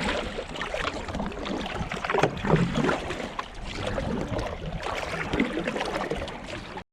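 Kayak paddle strokes splashing unevenly in fast river current, with water rushing around the boat; the sound cuts off abruptly near the end.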